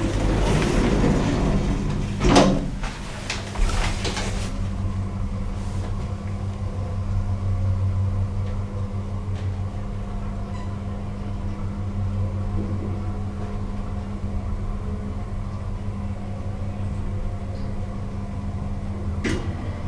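A 1990s passenger lift working: a sliding stretch and clunks in the first few seconds, like the doors shutting, then a steady mechanical hum as the car travels, with another click near the end.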